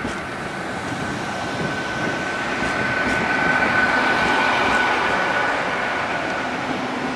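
Great Western Railway Class 800 intercity train running past along the platform, with the rumble of its wheels on the rails. A steady high whine grows to its loudest about halfway through, then eases off.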